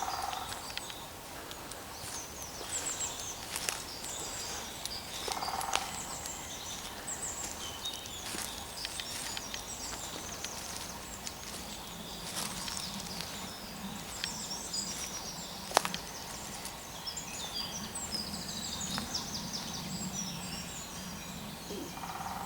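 Woodland songbirds singing and chirping throughout, with a woodpecker drumming in short bursts three times: at the start, about a quarter of the way in, and near the end. A single sharp click about two-thirds of the way through, and a low steady hum from about halfway.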